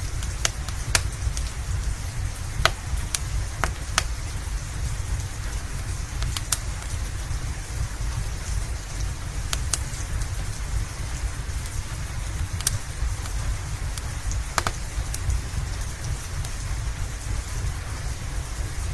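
Steady rain mixed with a crackling fireplace: a continuous hiss over a low rumble, with scattered sharp crackles and pops at irregular intervals.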